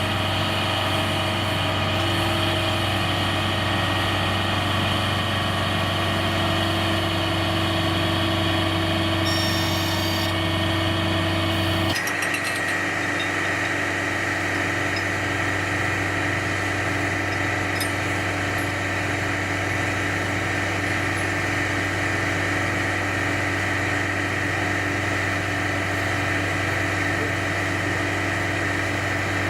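Heavy military truck's diesel engine running steadily at idle; its note changes abruptly about twelve seconds in.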